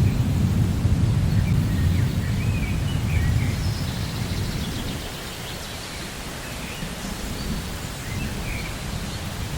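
Rainforest thunderstorm: a low roll of thunder rumbles and dies away over the first half, over a steady hiss of rain, with a few brief bird chirps.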